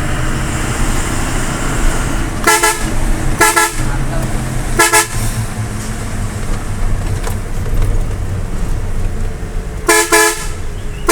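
Truck horn honked in short repeated blasts, three spaced about a second apart and then two quick ones near the end, over the low steady rumble of the truck's engine: warning blasts at a vehicle that has not heard them.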